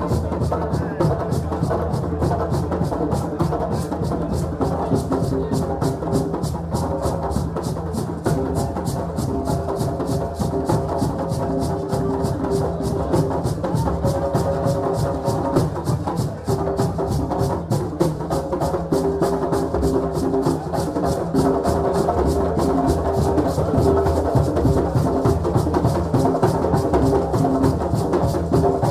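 West African celebration drumming: a fast, steady drum rhythm with held pitched tones running underneath.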